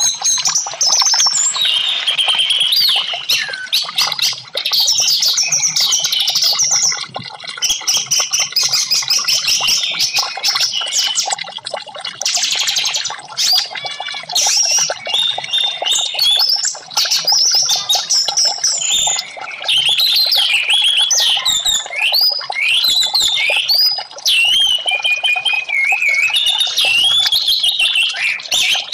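Orange-headed thrush (anis merah) singing a fast, unbroken run of varied whistled phrases mixed with quick ticking notes, pausing briefly a few times.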